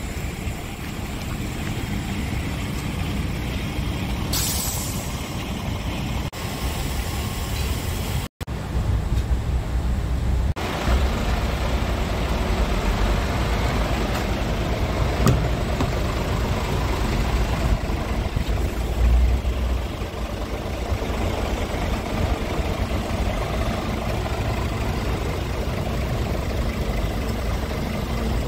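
Scania R450 truck's 13-litre six-cylinder diesel engine running with a steady low rumble. A short hiss of air comes about four seconds in, and the sound cuts out for an instant just past eight seconds.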